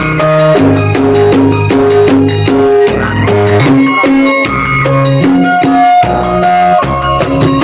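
Loud music played through a large event sound system: a melody of short held notes over a steady beat with percussion.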